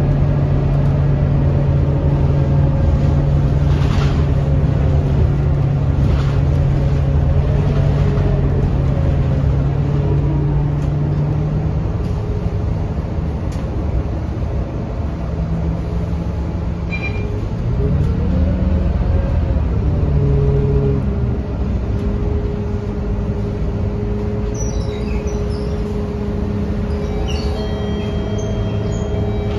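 Scania K230UB bus's diesel engine running steadily, with its pitch changing about halfway through in a rising and falling sweep of engine speed before it settles into a new steady note. Short high chirps and tones sound near the end.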